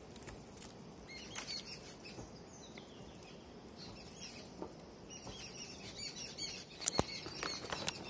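Small birds chirping in short, high calls over faint outdoor hiss, with a few sharp clicks near the end.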